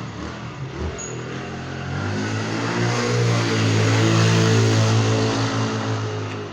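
A motor vehicle's engine, a steady low hum that grows louder to a peak about four seconds in and then fades, as if it passes close by.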